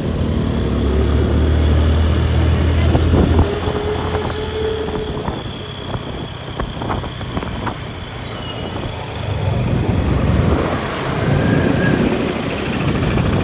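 Road traffic: a motor vehicle engine running with a low drone for the first few seconds, then a mix of traffic noise and scattered short knocks.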